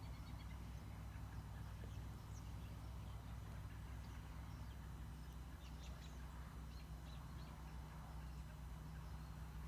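Faint chatter of a very large flock of birds: scattered short chirps and calls, over a steady low hum.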